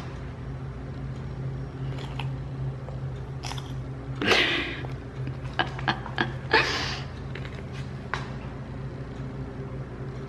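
Toddler biting and chewing a piece of raw celery, with short crunchy clicks and two louder bursts about four and six and a half seconds in, over a steady low hum.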